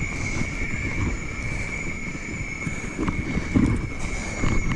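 Mountain bike rolling along a dirt singletrack, knobby tyres crackling over loose dirt and pine needles, with wind on the microphone and a steady high-pitched whine throughout.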